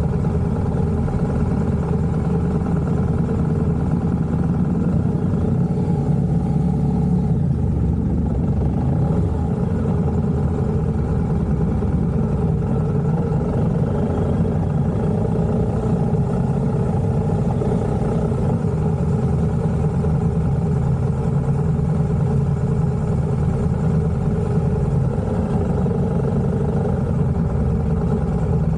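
A car's engine running, a steady low drone with road or engine noise that holds at one level throughout.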